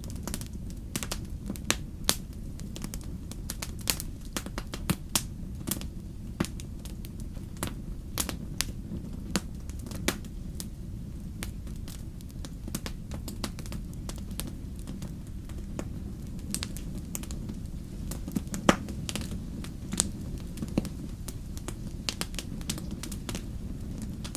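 Wood bonfire crackling: irregular sharp pops and snaps over a steady low rumble of the flames, with one louder pop about three quarters of the way through.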